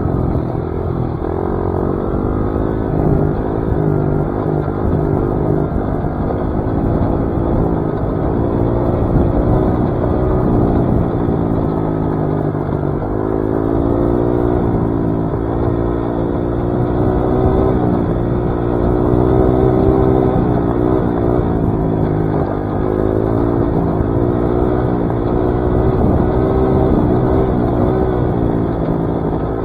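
Dirt bike engine running while riding a trail, its pitch rising and falling continually as the throttle is worked.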